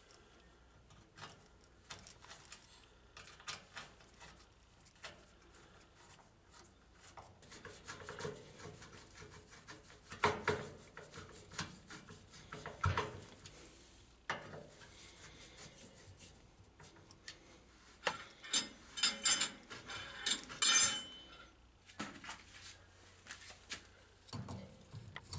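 Scattered clicks, knocks and rubbing as parts of a Dixie Narco vending machine's rotor and gearbox assembly are handled and fitted. Two louder knocks come about 10 and 13 seconds in, and a quick run of clinking clicks about three-quarters of the way through.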